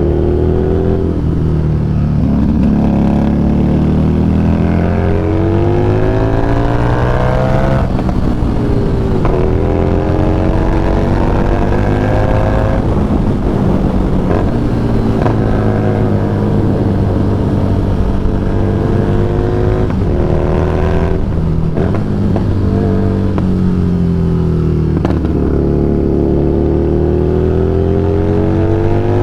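Harley-Davidson Street Rod 750's V-twin engine running under way, its pitch climbing several times and dropping back between climbs as it accelerates and eases off.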